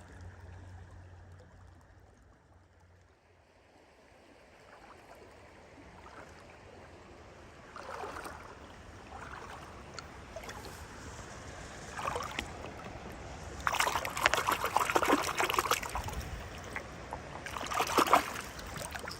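Faint trickling water, with irregular scraping and rustling that starts about eight seconds in and comes thickest near the end, as of footsteps and hands moving through wet debris.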